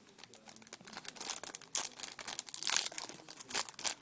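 Plastic card packaging crinkling and crackling as it is handled and opened, in quick irregular crackles.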